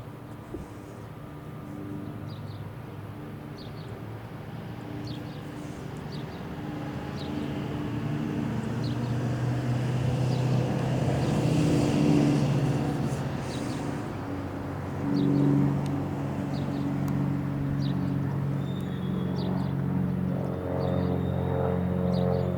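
Motor vehicle engines passing: a low engine sound swells to its loudest about halfway through and fades, then a second rises sharply about fifteen seconds in, with short high chirps scattered over it.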